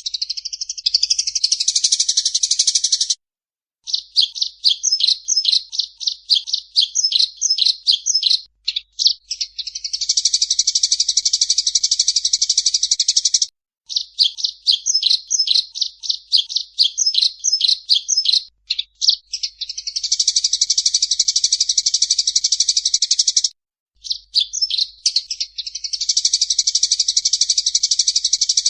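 Songbird song from a recorded bird-song training track: quick runs of sharp high notes alternating with long, unbroken buzzy trills. The phrase comes round about every ten seconds, broken by short pauses.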